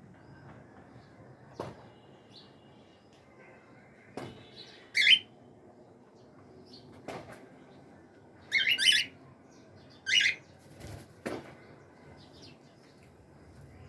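Cockatiels giving short, harsh screeching calls, one about five seconds in, a quick cluster around eight and a half to nine seconds, and another at ten, with a few sharp knocks in between.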